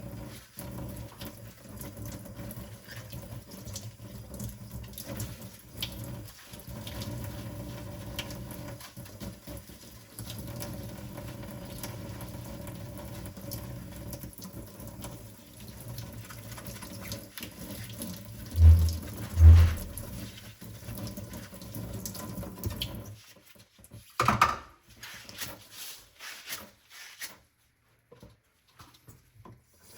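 Tap water running into a kitchen sink during hand dishwashing, with two dull low thumps close together about two-thirds of the way in. The water stops soon after, and a single clatter and a few small knocks follow.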